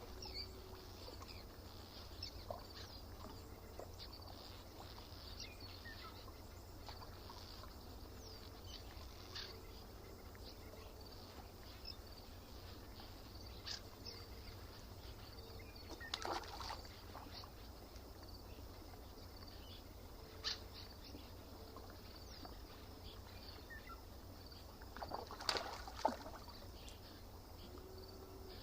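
Quiet lakeside ambience: birds singing in scattered short, high chirps over a low steady rumble, with two louder brief sounds about sixteen and twenty-six seconds in.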